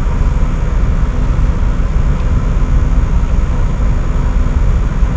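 Steady low rumble of a semi truck's idling diesel engine, heard from inside the cab.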